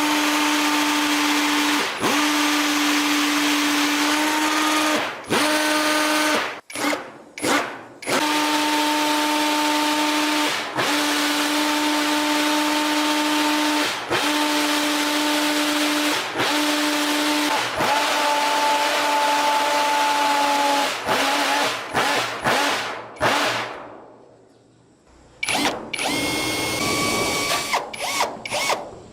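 Handheld electric power tool whining steadily at one pitch, run in bursts of two to three seconds with brief stops between them. Near the end it falls quiet for about a second, then a higher-pitched whine starts.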